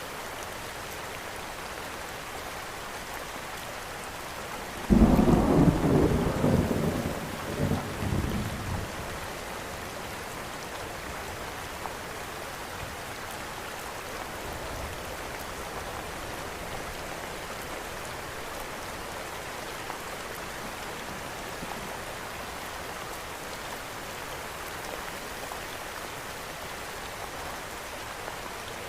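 Steady rain falling, with a sudden clap of thunder about five seconds in that rumbles away over a few seconds.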